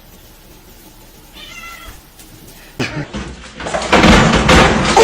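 A cat meows once, briefly, about a second and a half in. From about three seconds a loud, rough noise takes over and grows louder toward the end.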